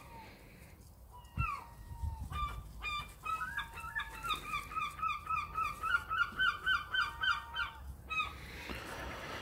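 Birds calling: a fast run of short repeated calls, about five a second, from about three seconds in until shortly before the end.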